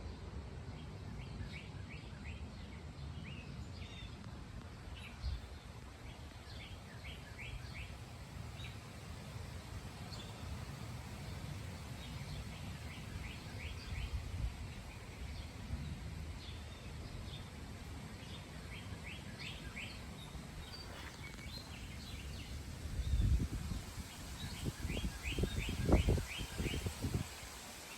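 Small birds chirping in quick runs of short notes over a steady outdoor noise bed, with a few low rumbles near the end.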